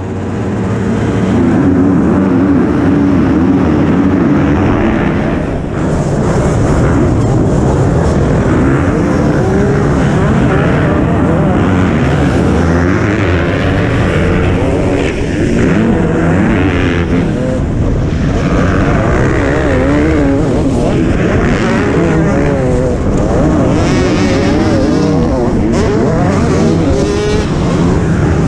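Motocross bike engines at race pace, heard on board one of the bikes: the field launches off the starting gate, the sound rising in the first second, and the engine note then keeps rising and falling as the bike races in the pack of MX1 bikes.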